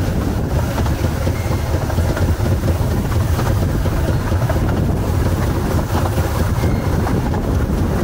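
Ravenglass and Eskdale Railway miniature steam train running along the track, heard from an open passenger carriage: a steady, loud rumble of the moving train.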